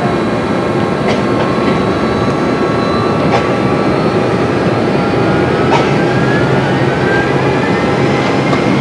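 Airbus A300B4-203 heard from the flight deck on its takeoff roll: its General Electric CF6-50 turbofans running at takeoff thrust, a steady loud rush with a whine that climbs slowly in pitch as the aircraft gathers speed. A few brief sharp clicks come through.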